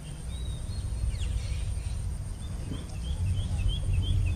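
A bird chirping, once near the start and then in a quick run of short calls at about four a second, over a low rumble that grows louder, with a faint steady high-pitched hum behind.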